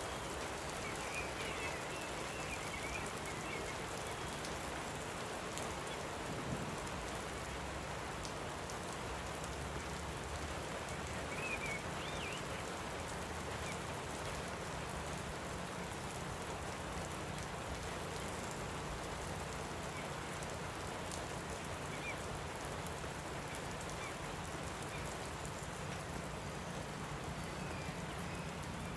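Light rain falling steadily, an even hiss of drops on the ground and the water, with a few faint, short bird chirps now and then.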